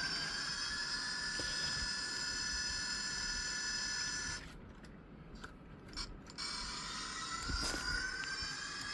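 Model train locomotive's electric motor running with a high whine that slowly rises in pitch. It cuts out about four and a half seconds in and starts up again about two seconds later, with a few small clicks.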